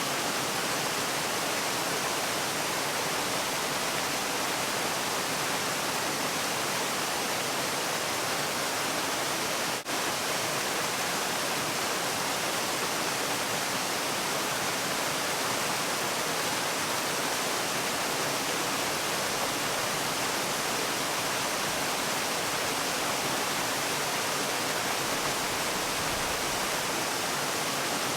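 Steady rushing of falling water, an even hiss spread evenly from low to high pitches, with a momentary dip in level about ten seconds in.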